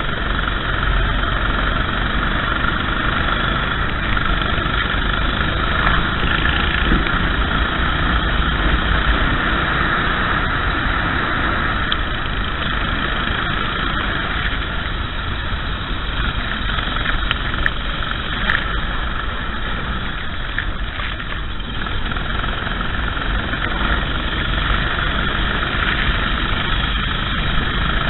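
Racing kart's engine running at speed, mixed with steady wind and wet-track noise on an onboard microphone.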